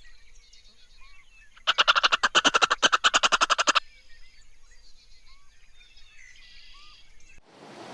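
An animal call: a rapid rattling train of pulses, about ten a second, lasting about two seconds, over faint bird chirps.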